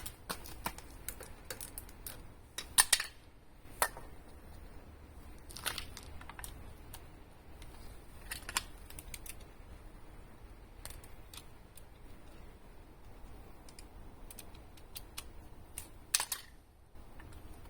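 Scattered light clicks and taps of hand tools and small parts being handled, with sharper clusters of clatter about three seconds in and again near the end.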